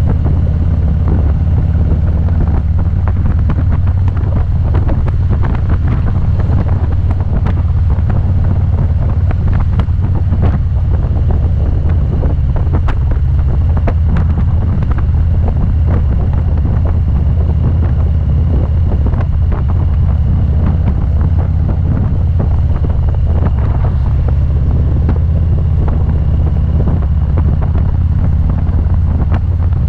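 Wind rumbling heavily on the microphone of a motorcycle ridden at road speed, with the engine running steadily underneath. The sound is loud and constant, with no let-up.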